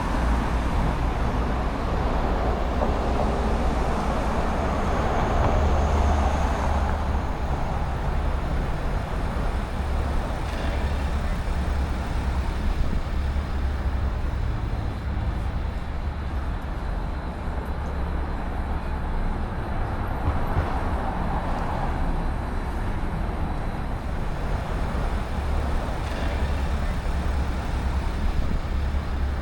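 Downtown street traffic: a steady low rumble of passing cars and heavier vehicles, swelling louder as vehicles pass a few seconds in and again past the middle.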